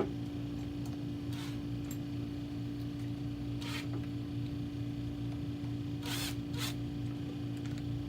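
A few short scraping strokes of a hand tool drawing up screws on a Blizzard machine's motor mount, heard over a steady low hum.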